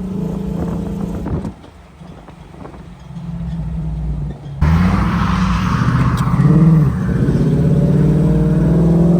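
Vehicle engine running, fading down about a second and a half in, then coming back suddenly and louder about halfway through with a rush of noise, its pitch rising and falling once as it revs.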